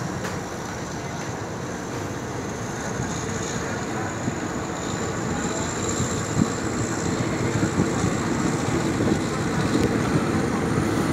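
Passenger train pulling out of a station, heard from on board: a steady rumble of wheels and running gear that grows louder as the train gathers speed, with a faint high whine above it.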